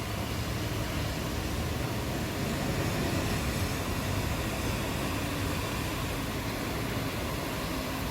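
Steady rain hissing, with a low rumble of distant thunder that swells about two seconds in and eases off again.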